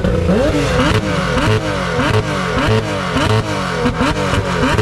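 Car engine revved in quick repeated blips, about two a second, each rising sharply in pitch and falling away.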